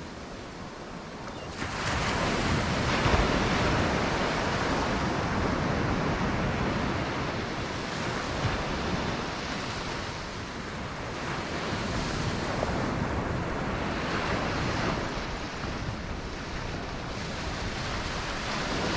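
Ocean surf washing onto a beach, a steady rush that grows louder about a second and a half in and then swells and ebbs.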